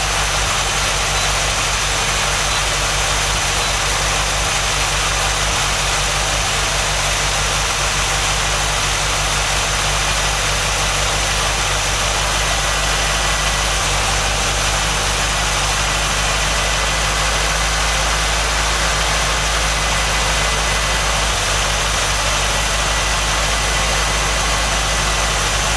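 MGB's 1.8-litre B-series four-cylinder engine idling steadily on its first run after a rebuild.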